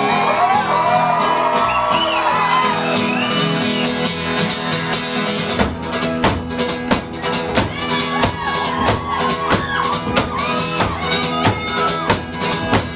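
Acoustic folk-rock band playing live in an instrumental break, with wordless shouted vocals over ringing chords at first. From about six seconds in it drives into fast, hard strumming with a pounding beat.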